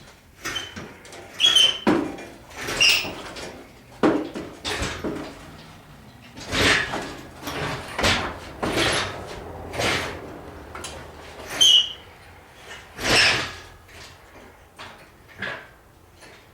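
Irregular metal clanks and knocks, about a dozen, with a few short high squeaks, from handling an engine hung on a hoist chain and the gear around it.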